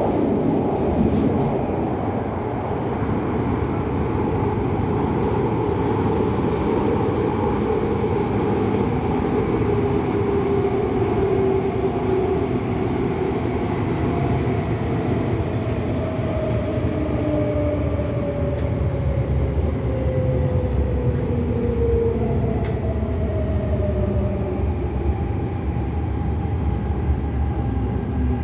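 MTR Tung Chung Line CAF electric train running, a steady rumble of wheels on rail. Over it a motor whine falls in pitch from about the middle.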